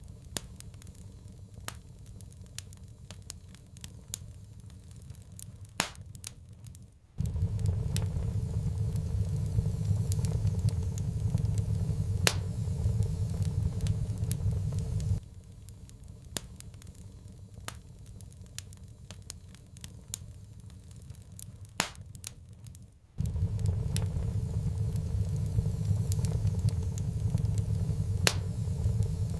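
Fireplace fire crackling, with sharp pops scattered throughout. A low rumble comes in about a third of the way in, drops out at about the halfway point, and returns near the end.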